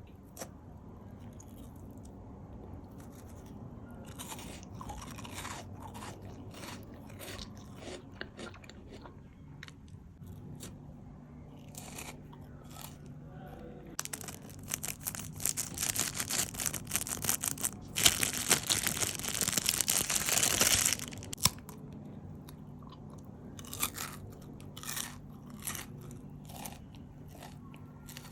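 Close-miked eating: bites and chewing, with scattered crisp crackles at first and a dense, loud spell of crunching from about 14 to 21 seconds in.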